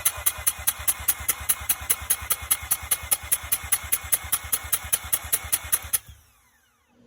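Mazda RX-8 13B two-rotor engine cranking on the starter motor without firing, as for a compression test: an even, rapid pulsing of about seven beats a second. The cranking stops abruptly about six seconds in.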